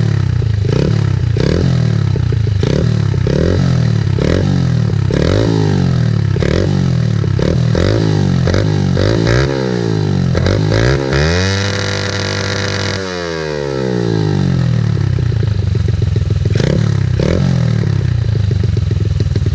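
Pit bike's TB108 single-cylinder four-stroke engine revving through a fabricated Z50R-style muffler, with more thump to it instead of a hollow can noise. It takes quick throttle blips, about three every two seconds. About halfway through it climbs to high revs, holds there for a second and a half, drops suddenly, and goes back to blips.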